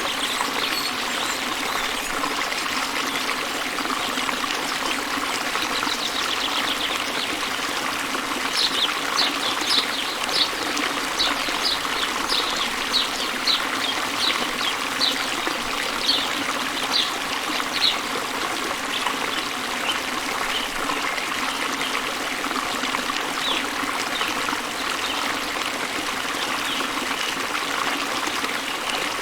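Waterfall rushing steadily, with a bird calling in a series of short high chirps about twice a second for roughly ten seconds in the middle.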